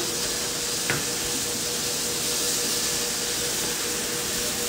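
Steady sizzling hiss of chicken pieces frying in a pan, with a faint steady hum under it and a light click about a second in.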